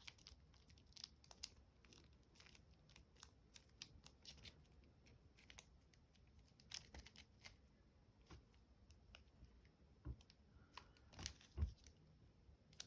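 Quiet handling noises of packaging being opened: scattered crinkles, snips and small clicks, with a couple of louder knocks near the end.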